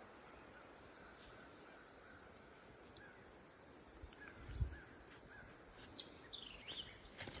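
Chorus of crickets trilling steadily at a high pitch, with a few short bird chirps in the second half and a single low thump about two-thirds of the way in.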